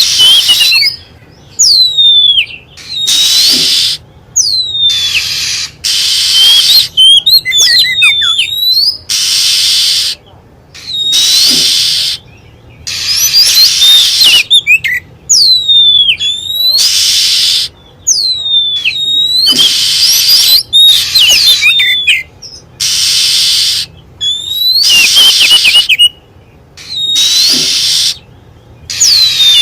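Oriental magpie-robin (kacer) calling as a lure call: clear whistled notes that slur down and sweep up, alternating with harsh, hissing scold notes about a second long. The pattern repeats over and over.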